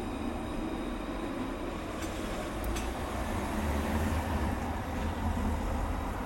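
Steady rumble of a tram in motion, heard from inside the car, with faint high electrical whine tones and a couple of brief clicks between two and three seconds in.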